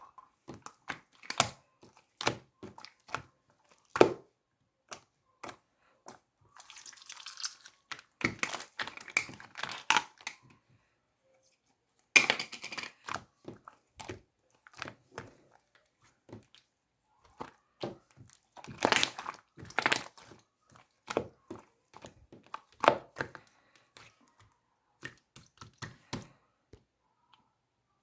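Slime being squished, pressed and stretched by hand, making irregular pops, clicks and short crackling bursts, with denser crackling stretches a few times.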